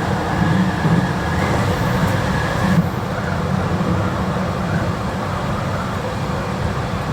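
JR Kyushu 821 series electric train running, heard from inside: a steady low rumble of wheels and running gear with a faint high whine. About three seconds in, the sound changes abruptly as the whine and the upper hiss drop out.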